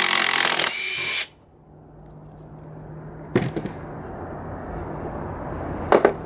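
Cordless impact driver hammering on a 3/8-inch lag screw, trying to back out a screw driven in too far; it eases off and stops a little over a second in. Two sharp knocks follow later.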